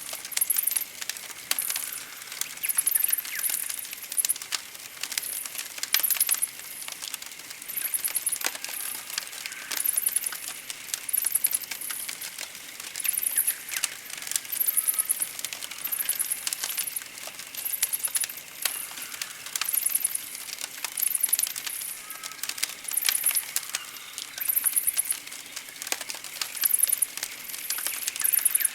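Campfire crackling with scattered sharp snaps and pops. Over it, short, very high, rapidly pulsed chirps repeat roughly once a second.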